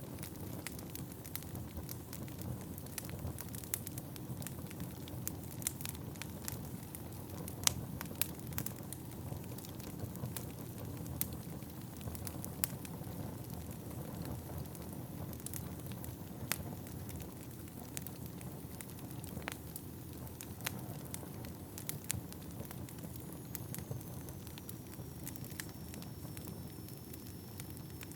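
Wood fire burning in a fireplace: a steady low rush of flames with irregular sharp crackles and pops from the burning logs. A faint thin whistle comes in near the end.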